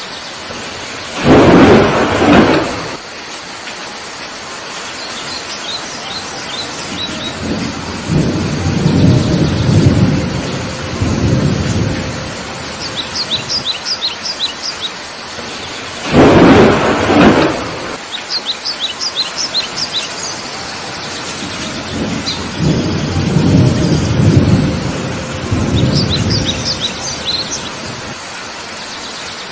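Heavy rain falling steadily, with thunder: two sharp thunderclaps about fifteen seconds apart, each followed by long low rolling rumbles. Short runs of high bird chirps come between them, and the same sequence plays twice, as in a looped track.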